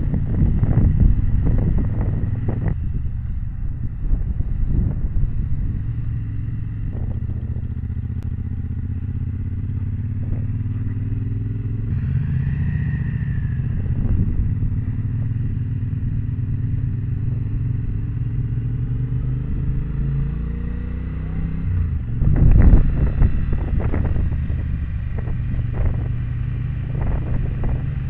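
Motorcycle engine running at road speed. The engine note climbs slowly a couple of times and then settles. A louder rush of noise comes about 22 seconds in.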